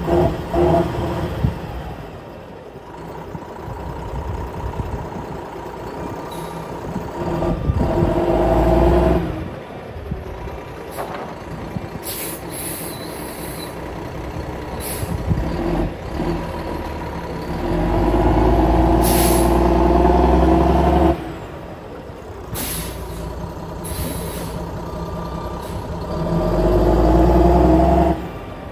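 Cummins ISM inline-six diesel of a Kenworth W900 mixer truck running, getting louder for a couple of seconds three times as it is worked, each time dropping back abruptly. Several short hisses of air from the truck's air system come in between.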